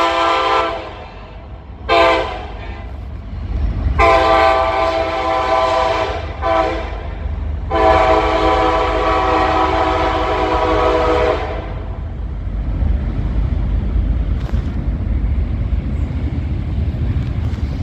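Norfolk Southern diesel locomotive's air horn sounding a chord in several blasts: one ending just under a second in, a short one at about two seconds, a long one about four seconds in, a brief one, and a final long blast ending about eleven seconds in. After it, the low steady rumble of the passing train.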